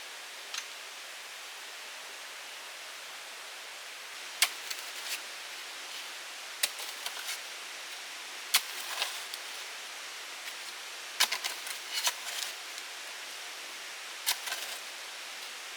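Sharp knocks, each followed by a few lighter clicks, come in six short clusters about every two seconds over a steady hiss.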